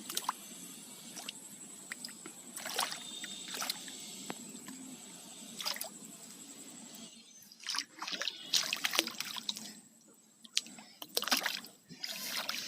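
Water splashing and sloshing in irregular bursts, as hands grope through shallow water for catfish, with a thin steady high tone underneath.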